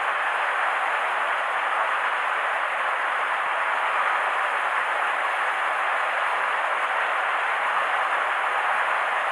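Steady, even rushing noise with no breaks and no change in level.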